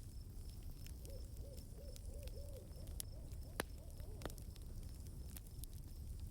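Evening nature ambience: an owl hooting a quick run of about six short, arched notes, then a few fainter ones, over a steady high chirring of crickets. Two sharp clicks stand out near the middle.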